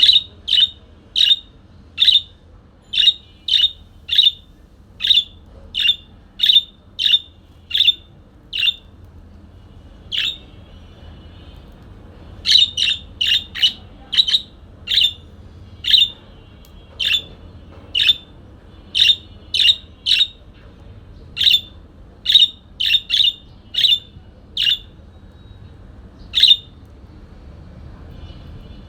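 A parakeet calling over and over with short, sharp chirps, about one or two a second, with a brief lull about a third of the way through and only one call near the end.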